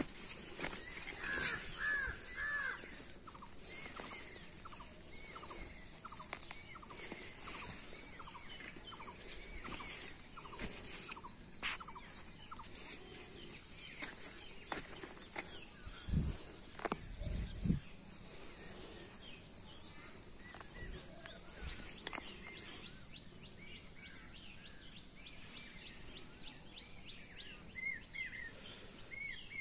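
Birds chirping in a long series of short repeated calls over outdoor background noise. A few low bumps come about sixteen to eighteen seconds in.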